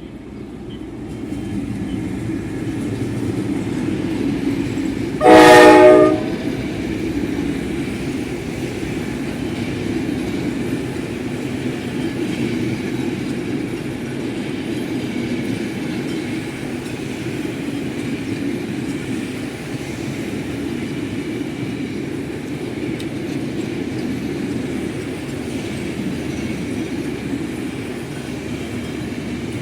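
General Electric diesel locomotive of Egyptian National Railways sounding one horn blast of about a second, about five seconds in, as the train runs past. The train's steady running noise builds over the first two seconds and carries on after the horn.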